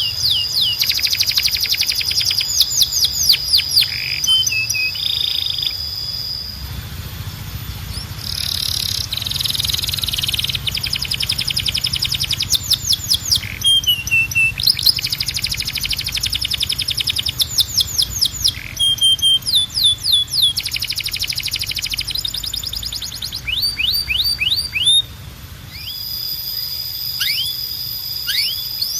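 Domestic canary singing a long continuous song: fast trills of repeated down-slurred notes alternating with held high whistles and short rolling phrases, with a faint low hum underneath.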